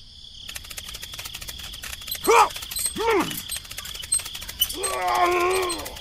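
A fast clicking rattle runs throughout, while a groaning voice-like sound rises and falls twice in the middle, then gives a longer wavering moan near the end.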